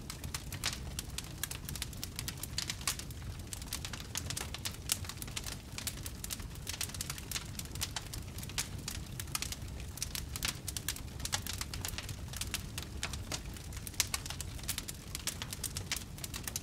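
Wood fire crackling steadily with many irregular small pops and snaps over a low rumble of burning logs.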